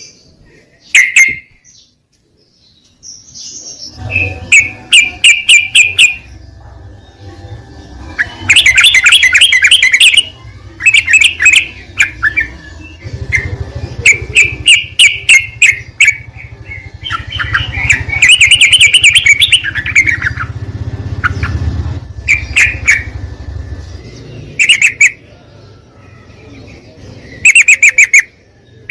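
Yellow-vented bulbuls (trucukan) singing in repeated bursts of quick, bubbling chirped phrases, each a second or two long, with short pauses between, over a low rumble through most of the middle.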